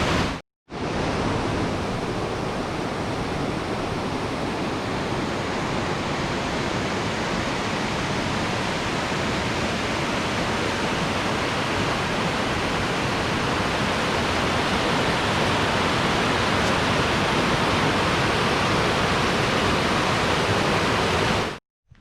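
Steady, loud rush of falling or flowing water, like a waterfall or mountain stream, breaking off briefly about half a second in and cutting off just before the end.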